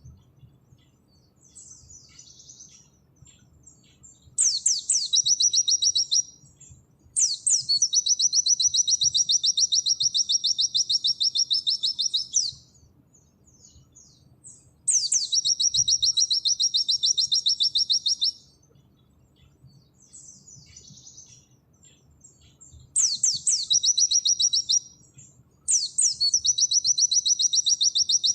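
White-eye (pleci) singing its rapid 'nembak' song: long, high trilling bursts of very fast repeated notes, each opening with a quick sweep, with softer chirps between them. There are five bursts, the longest about five seconds.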